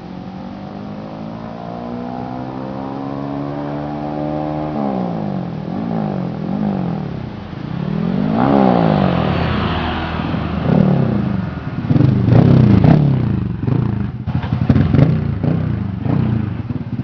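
Honda Dream II motorcycle's single-cylinder four-stroke engine being revved. The pitch climbs steadily for the first few seconds, then rises and falls repeatedly with the throttle. In the second half it gets louder, with clattering knocks.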